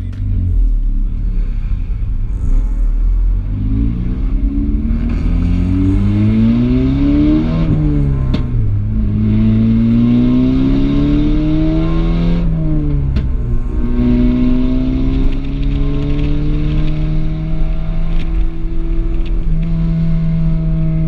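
Volkswagen Golf R's turbocharged four-cylinder engine heard from inside the cabin, pulling away under hard acceleration. The note rises through the gears, drops at two upshifts, and settles to a steady drone near the end.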